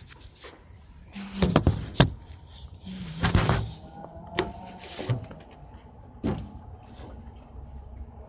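Irregular knocks, bumps and rattles as a heavy refrigerator is handled and lifted. The loudest bangs come about a second and a half and two seconds in, with a longer clatter just after three seconds.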